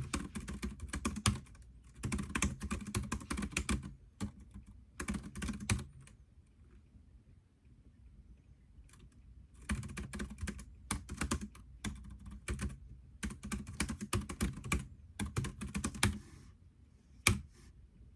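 Typing on a computer keyboard: quick runs of keystrokes in bursts, a pause of a few seconds in the middle, then one lone sharp keystroke near the end.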